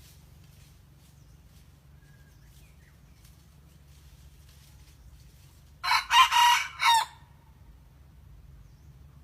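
A young junglefowl decoy cockerel crowing once, about six seconds in: a short crow of about a second, in four broken parts, still being learned.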